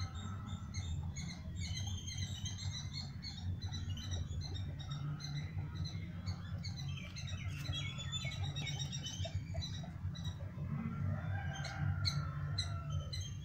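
Small birds chirping and twittering, many short notes at varied pitches, busiest near the middle, over a steady low rumble.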